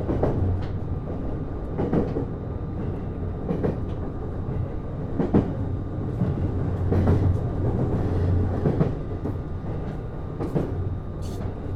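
Running sound inside a JR East Series HB-E210 hybrid diesel railcar under way: the wheels clack over rail joints about every second and three-quarters, over a steady low hum.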